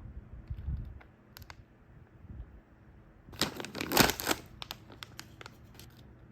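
Snack packaging being handled: a few soft low knocks, then a burst of crinkling and crackling about three and a half seconds in, with scattered clicks after it.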